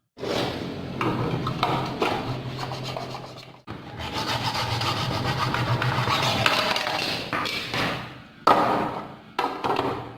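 A motor-driven sanding disc grinding against wood, with a steady motor hum under the abrasive rasp. It breaks off briefly about three and a half seconds in, runs on steadily, then gives a few short touches near the end.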